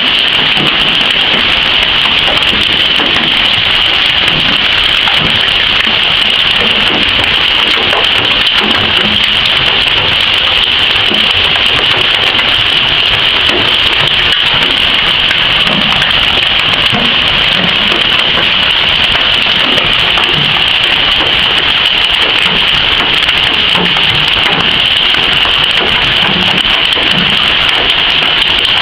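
Hailstones and heavy rain pelting down in a dense, unbroken clatter of small impacts, loud and steady.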